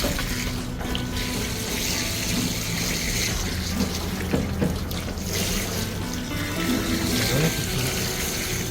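Water running steadily while a dog is bathed.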